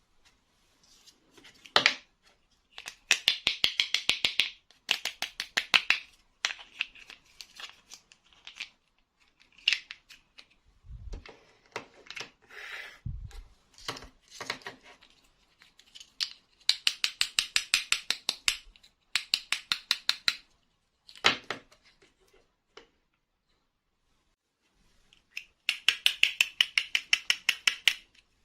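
Hands handling plastic toy packaging: several runs of rapid sharp clicks, about ten a second for a couple of seconds each, with scattered knocks and rustling between.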